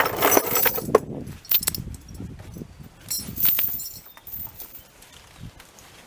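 Steel logging chain clinking and rattling as it is handled and wrapped around a trunk, in irregular bursts that are loudest in the first second and again about three seconds in.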